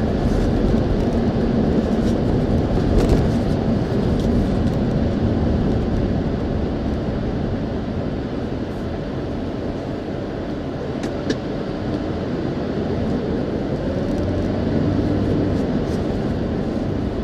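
Steady road and engine noise heard inside a Ford Expedition's cabin while it drives, with a couple of small clicks.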